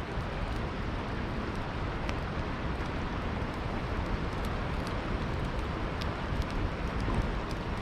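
Campfire crackling with scattered sharp pops at irregular moments, over the steady rushing of a river.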